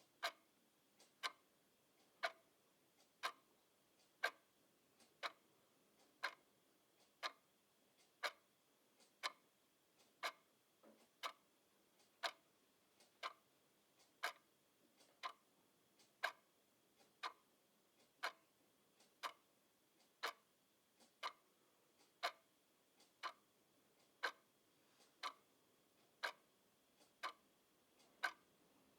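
Clock ticking steadily, a sharp tick about once a second.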